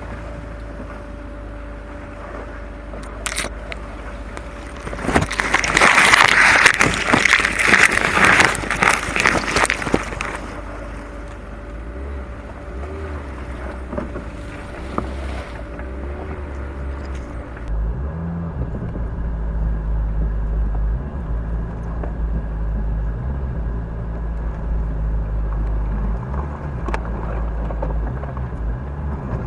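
Off-road vehicle's engine running at low speed on a rough, overgrown trail, with branches and brush scraping and crackling along the body for about five seconds starting around five seconds in. Later the sound turns duller, with a heavier low rumble.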